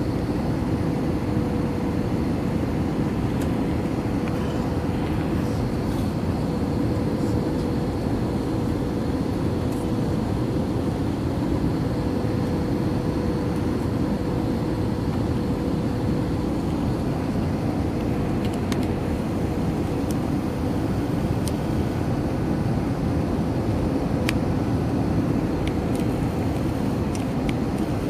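Steady cabin noise of an Airbus A321-231 in flight, heard from a passenger seat: an even, low roar of airflow and engines with a constant hum through it.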